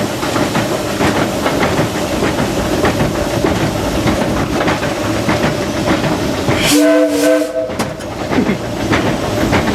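Running clatter of the 1925 Baldwin steam locomotive Ernest S. Marsh, heard from its cab. About seven seconds in comes one short blast of its three-chime Powell steam whistle, three notes sounding together.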